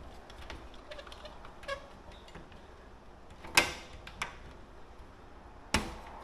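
Small metal clicks and taps as an E-clip is worked onto the pin of an RV awning arm strut, with two sharp metallic knocks, one about three and a half seconds in and one near the end.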